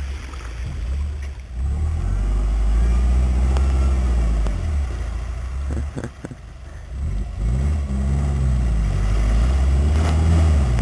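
Subaru Brumby ute's flat-four engine revving up and down as it pushes through a flooded track, with water splashing around the wheels.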